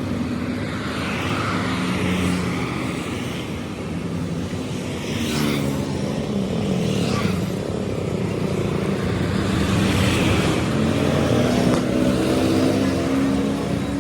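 Motor vehicle engines running, their pitch rising and falling, most clearly about five to seven seconds in.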